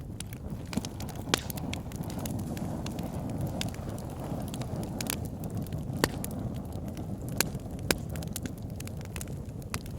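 Wood fire burning in a log burner: a steady low rush of flames with irregular sharp crackles and pops from the logs, a few louder pops standing out.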